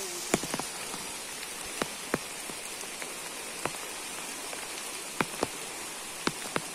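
Heavy rain falling in a steady hiss, with irregular sharp taps of large drops striking close by, about ten of them.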